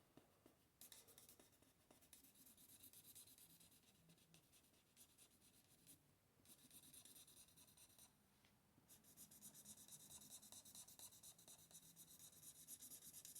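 Faint scratching of an Ohuhu alcohol marker's fine tip on paper: quick back-and-forth colouring strokes in three stretches, with short pauses about six and eight and a half seconds in.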